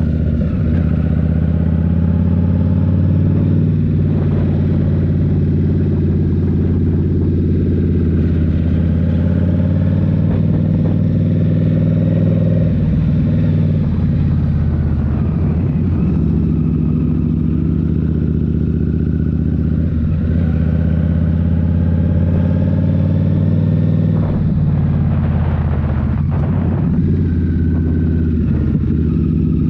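Indian Scout Rogue's 69 cu-in V-twin running through a Rinehart slip-on exhaust while riding. The engine note holds steady, with its pitch rising and falling as the throttle changes, most clearly about halfway through and again near the end.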